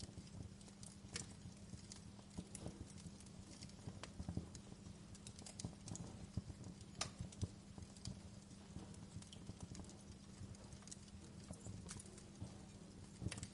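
Wood fire burning in a fireplace, crackling with irregular sharp pops and snaps over a steady low hum.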